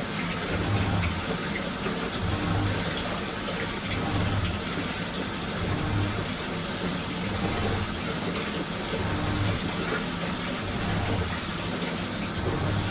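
Washing machine running a strong wash cycle: water sloshing steadily, with a low motor hum that swells and fades about every second and a half to two seconds as the drum turns.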